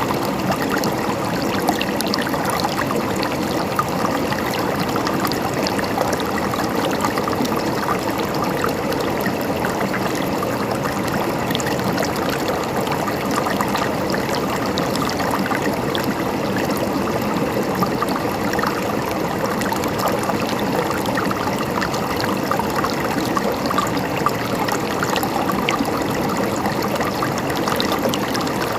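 River water flowing: a steady, even rush of water with fine splashing and gurgling.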